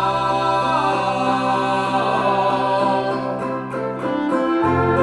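Folk band playing the song live: a long held sung note over plucked guitar strings.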